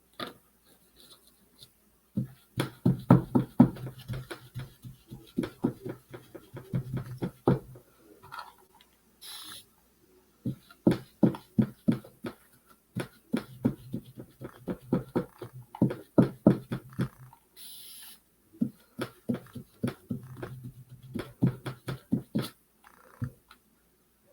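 Rapid dabbing taps of a paintbrush stippling texture into paint on a wooden birdhouse. The taps come several a second in bursts a few seconds long, with short pauses between.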